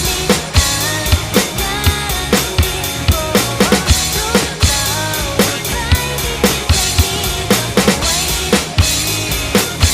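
Acoustic drum kit played to a steady rock beat, with kick drum, snare and cymbal hits about three times a second, over a recorded pop-rock song.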